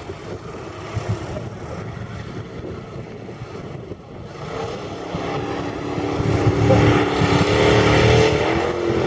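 Off-road vehicle engine running, growing louder about halfway through and settling into a steady, even drone.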